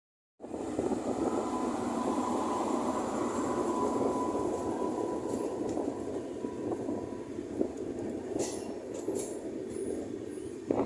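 Indian Railways train running on the track: a steady rumble that eases slightly after about six seconds, with a few sharp clicks in the second half and a knock at the very end.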